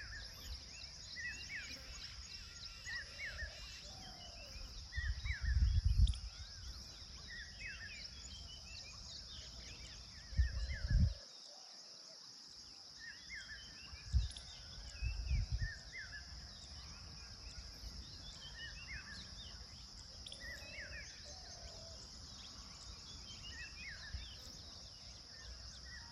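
Outdoor rural ambience: a steady high insect drone, with small birds chirping in short repeated calls throughout. A few low rumbles come and go, the loudest about five to six seconds in and again near eleven seconds.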